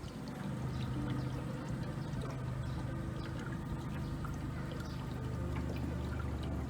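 A small tour boat's motor humming steadily, with water splashing and trickling along the hull.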